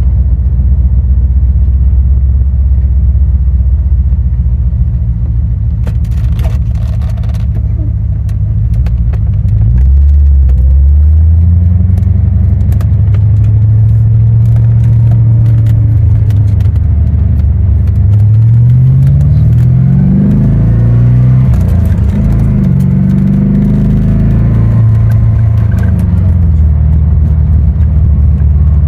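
1990 Corvette's L98 5.7-litre V8 running on the road through an exhaust with an X-pipe that the driver takes for Flowmaster. It drones steadily at first, then the engine note climbs and drops several times as the car accelerates and shifts gears.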